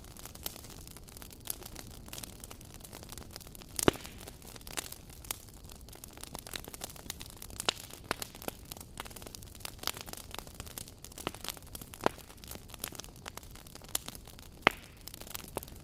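Wood fire burning, crackling and popping at irregular intervals over a soft steady hiss; two sharper pops stand out, about four seconds in and near the end.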